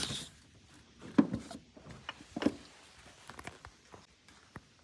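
A few scattered light knocks and clicks of handling, the loudest about a second in, with quiet rustling between.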